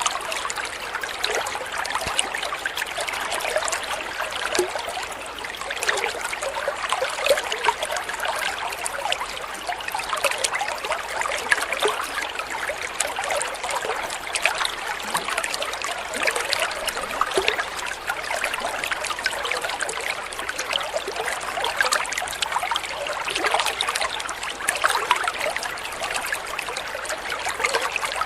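Small stream of water trickling and splashing steadily, a continuous babbling with many small gurgles and no break.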